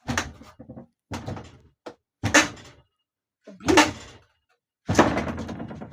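A door being handled: five separate knocks and bangs about a second apart, the last one longer and rattling.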